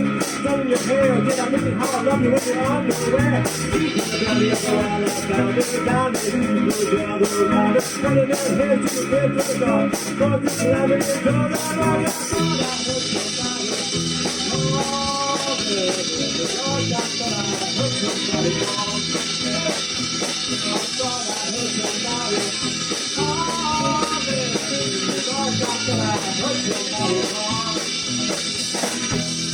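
Live rock band playing an instrumental passage, guitar over bass and drums. Sharp, evenly spaced cymbal strokes keep time for about the first twelve seconds, then give way to a steady cymbal wash.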